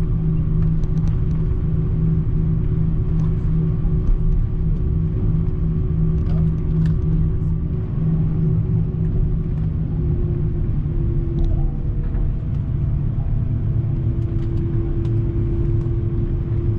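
Airbus A340-300 heard from inside the cabin after landing: a steady engine rumble with a constant hum. About ten seconds in, one hum tone steps slightly lower in pitch and a higher tone appears. Faint scattered clicks sound over it.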